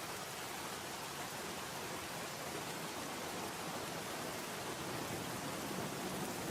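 Steady rain on window glass: an even hiss with no distinct drops or knocks standing out.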